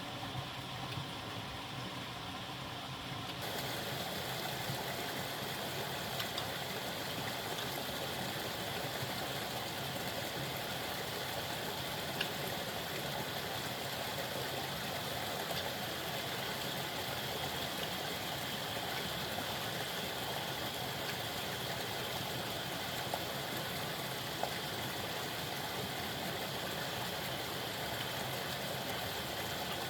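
Steady rushing noise, which grows louder and fuller about three and a half seconds in, with a few faint clicks.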